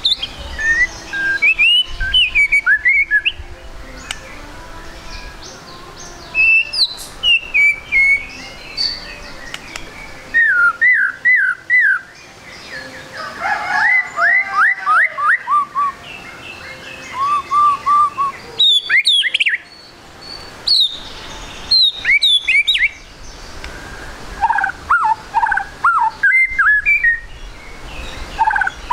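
White-rumped shama singing: bursts of varied, rapid whistled phrases and quick repeated sliding notes, separated by short pauses.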